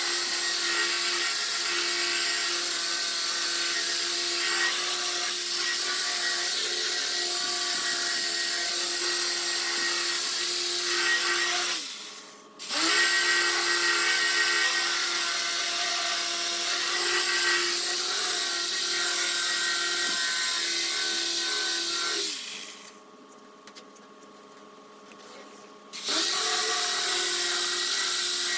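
Power sander running steadily against a car body panel, with a steady motor whine and the hiss of sanding. It winds down and stops briefly about twelve seconds in, starts again, then stops for about four seconds near the end before starting up once more.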